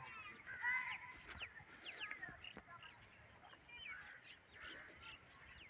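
Cranes (koonj) calling, many short overlapping honking calls from a flock, loudest just under a second in.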